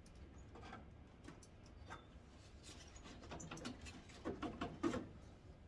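Light scratching, rubbing and scattered small clicks as a headlight trim cover on a Ford Ranger is handled and pried at, with a denser run of clicks about four seconds in.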